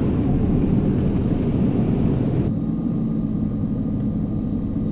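Steady low rumble of a vehicle driving, engine and road noise. About halfway through the hiss drops away, leaving a steadier low hum.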